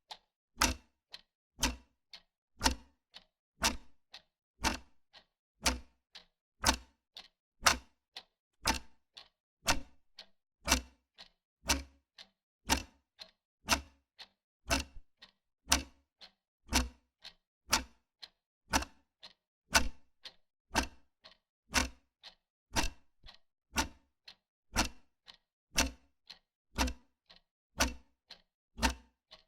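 Wall clock ticking steadily, an even tick-tock with a louder tick about once a second.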